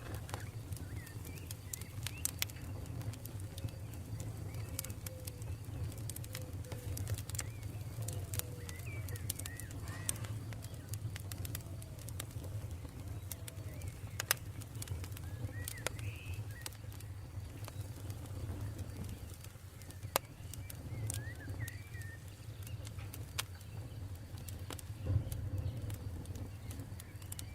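Campfire burning: scattered sharp crackles and pops over a steady low rumble, with faint bird calls.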